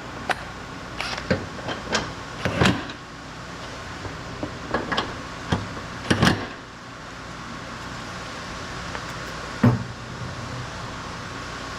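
A dozen or so irregular sharp knocks and clicks, most of them in the first half and one more near the end, over a steady background hum.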